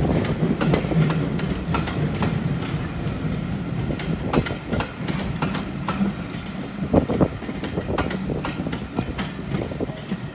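British Railways Mark 1 passenger coaches rolling past. Their steel wheels click irregularly over the rail joints above a steady rumble, and the sound fades as the last coach goes by.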